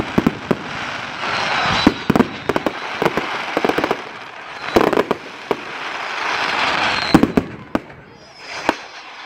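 Fireworks display: many sharp bangs in quick succession over waves of crackling hiss from bursting shells.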